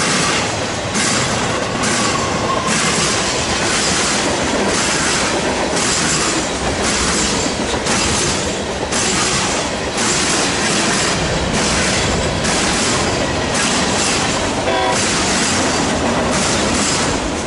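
Freight cars of a BNSF manifest train rolling past at speed, a dense rumble and hiss with wheels clacking over rail joints in a steady beat, and a short wheel squeal near the end.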